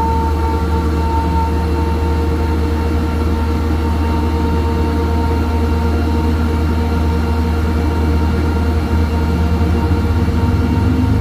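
Heavy diesel engine of a 250-ton hydraulic mobile crane running steadily under load, a deep drone with a steady whine over it.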